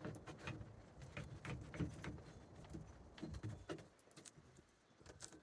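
Faint, irregular clicks and taps of clamps being handled and tightened onto a glued patch on a plastic roof-box shell, thinning out over the last second or so.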